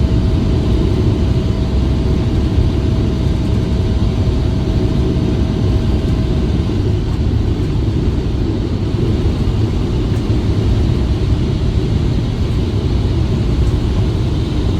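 Blizzard wind buffeting the microphone: a loud, steady low rumble. A faint steady tone underneath fades out a little under halfway through.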